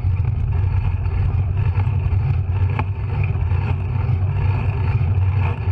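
Wind buffeting and road rumble on a GoPro camera's microphone while cycling: a steady, fluttering low rumble.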